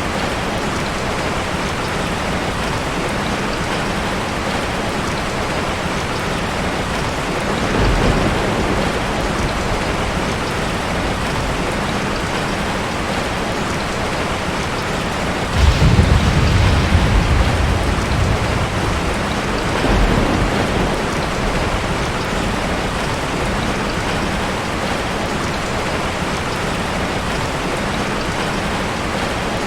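Steady rain falling on a forest, with low thunder rumbling three times: once about 8 seconds in, a louder peal that starts suddenly about halfway through and fades over a couple of seconds, and a softer one soon after.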